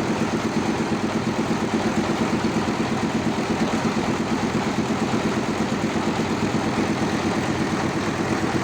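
A homemade log sawmill's engine running steadily, with a fast, even pulsing beat.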